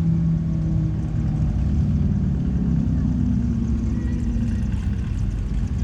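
A car's engine running as the car drives by at the roadside, a steady low exhaust note whose pitch rises a little about three seconds in.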